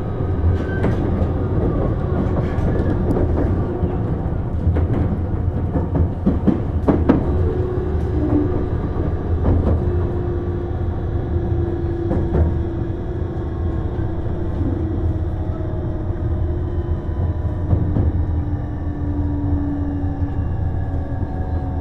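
Tobu Tojo Line commuter train (car 32602) running along the track: a steady low rumble with wheel clicks over rail joints in the first half. A faint motor tone falls slowly in pitch through the second half as the train slows.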